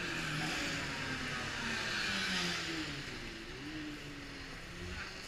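Racing motorcycles from the 1980s superbike class passing at speed. Their engine notes slide up and down in pitch as they go by, loudest about two seconds in, then fading.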